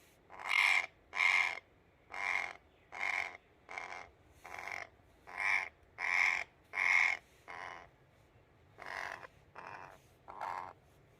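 A parrot caught in netting giving harsh, repeated squawks, about thirteen calls roughly one every 0.7 s, with a short pause near two-thirds of the way through.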